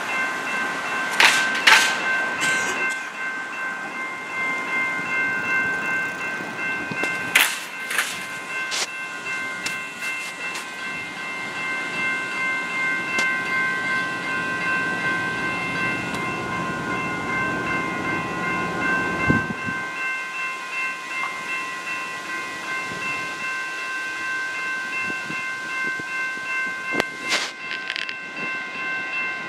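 Railroad crossing warning bell ringing steadily while an MBTA commuter rail train passes through the crossing. The train's rumble builds and then cuts off sharply about two-thirds of the way in, with a few sharp metallic clanks near the start and near the end.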